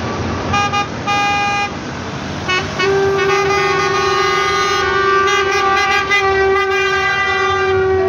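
Truck air horns sounding over diesel engine rumble: two short blasts, a brief toot, then a long continuous multi-tone blast from about three seconds in.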